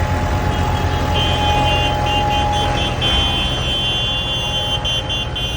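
Diesel tractor engine running steadily with a deep rumble. From about a second in, a high steady tone is held over it, broken briefly a few times.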